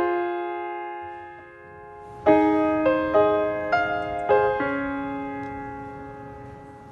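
Slow piano music. A note fades away, then a short phrase of single notes starts about two seconds in, and the last note is left to ring and die away.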